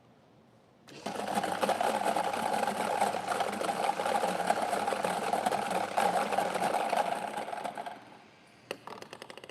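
Lottery ball machine running for about seven seconds, its numbered balls tumbling in a dense, even rattle that starts and stops sharply; a quick run of clicks follows near the end.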